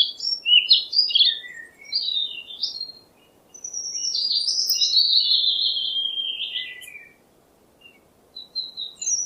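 Songbird singing: a run of quick chirping notes, then a long warbling phrase that slowly falls in pitch, and a few short chirps near the end.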